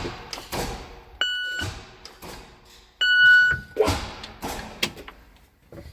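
Two electronic beeps, each about half a second long and a second and a half apart, the second louder, among scattered knocks and thumps.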